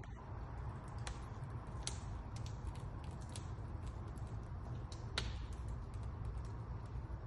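Wood fire crackling in a fireplace insert: irregular small sharp crackles and ticks over a steady low rumble, with the loudest crack a little past the middle.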